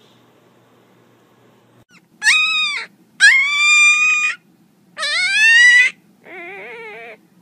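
A young black-and-tan puppy howling: four high, drawn-out cries starting about two seconds in, the last one quieter, lower and wavering.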